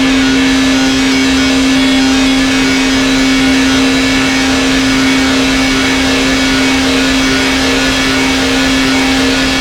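Erica Synths Black System III modular synthesizer holding one steady low drone note under a dense, gritty, engine-like noise texture.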